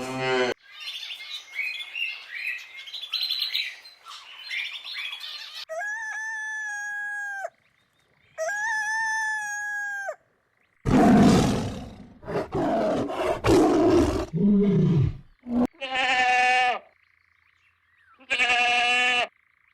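A run of separate animal sound effects: about five seconds of bird chirping, two long held calls on one steady pitch, several seconds of loud animal roaring, then two shorter calls.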